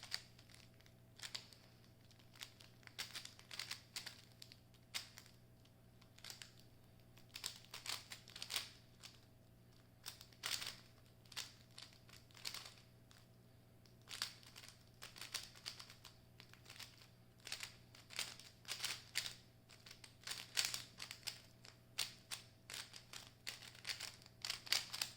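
Speedcube being solved: fast runs of plastic clicks as the layers are turned, in clusters broken by short pauses.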